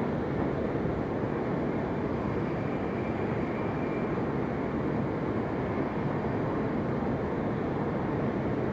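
Cabin noise inside a JR East E7 series Shinkansen running between stations: a steady, even running noise, heaviest in the low end.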